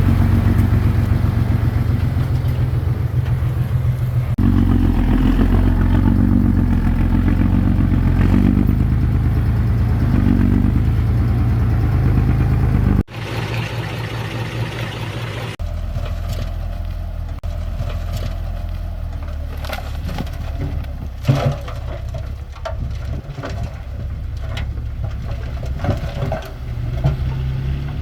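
Heavy diesel bulldozer engine running loudly under load while pushing soil. About halfway through the sound cuts off abruptly, and then a quieter engine runs with scattered clanks and knocks of metal and dirt.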